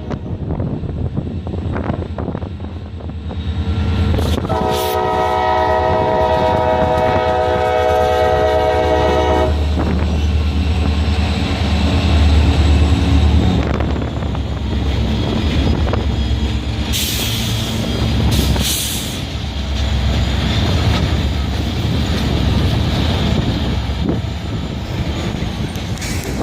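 Train passing close by with a heavy low rumble. Its horn sounds one long chord from about four seconds in to about nine and a half seconds in, then the cars roll past with wheel clatter.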